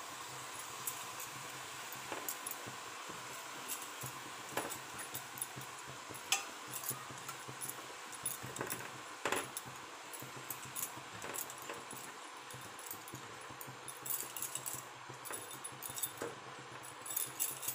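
Chopped chana saag (chickpea greens) and vegetables sizzling in hot oil in a kadai: a steady faint hiss with scattered irregular crackles and pops.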